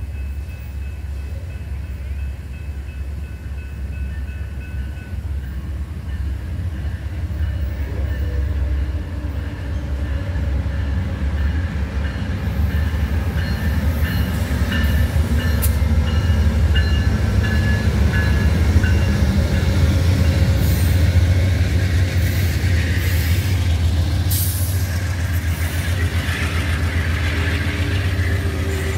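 Amtrak passenger train led by two GE P42 diesel locomotives approaching and passing: a heavy rumble grows steadily louder through the first half. It then holds as the locomotives and cars roll by, with a few sharp clicks from the wheels on the rails.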